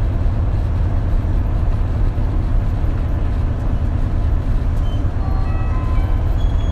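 Isuzu Erga KL-LV280L1 diesel city bus running, heard from inside the cabin as a steady low engine drone. A few short high tones sound near the end.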